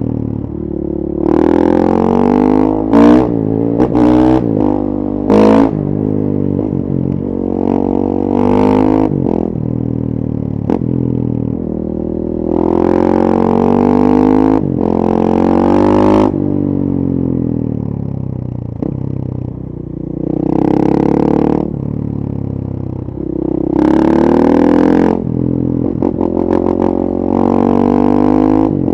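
2014 KTM 450 EXC supermoto's single-cylinder four-stroke engine through a full FMF 4.1 exhaust, ridden hard in repeated accelerations that rise in pitch through the revs. Several short, sharp throttle bursts come a few seconds in, and the engine runs lower and quieter between the pulls.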